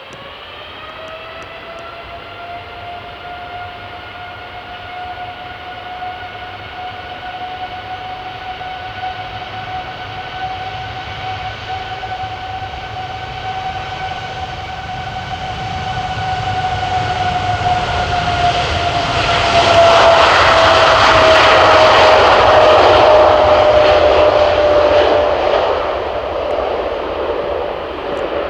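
Jet airliner's turbofan engines passing by. A steady high fan whine with overtones grows louder, then about two-thirds through a rush of engine roar peaks and the whine slides down in pitch as the aircraft goes past.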